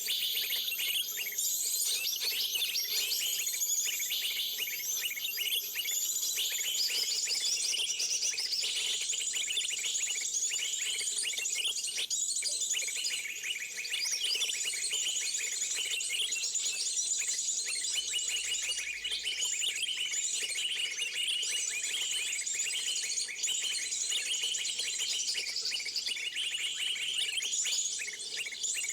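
Many small birds chirping and calling together in a dense, unbroken high-pitched chatter. A thin, steady, very high tone sounds for the first several seconds and then stops.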